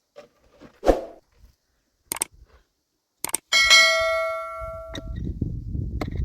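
A few knocks and taps, then a struck metal object rings out with one loud clang that fades over about a second and a half, followed by a low rumble.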